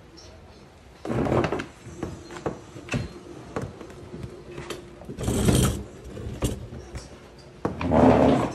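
Handling noises: scattered sharp clicks and knocks, with three short, loud scraping or rustling rushes about a second in, midway, and near the end.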